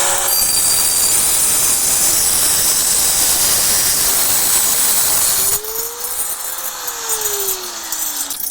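Power cutting tool slicing through the metal exhaust pipe, a loud steady hiss over a motor whine. About five and a half seconds in the cutting noise stops suddenly and the motor's whine winds down.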